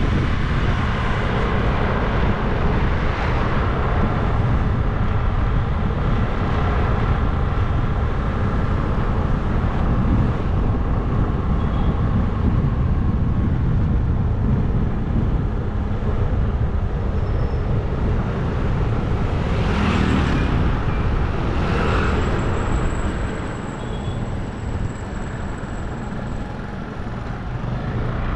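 Wind rushing over the microphone of a moving bike, with steady road noise. It eases off a little near the end.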